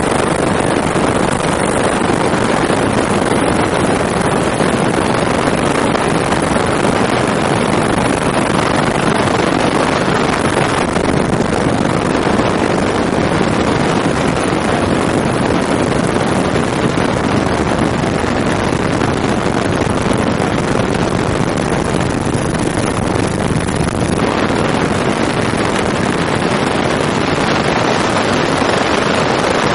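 Helicopter in flight heard from on board: a loud, steady noise of engine and rotor with wind rushing over the microphone.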